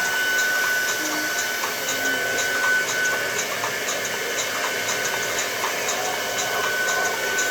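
Hand-held hair dryer blowing steadily, its motor giving a steady high whine over the rush of air.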